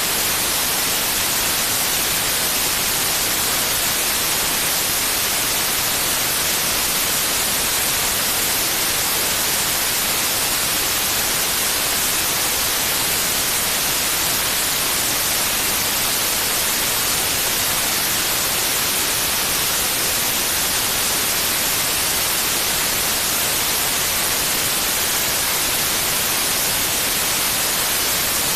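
Steady, unchanging white noise, an even hiss brightest in the treble, for lulling a baby to sleep.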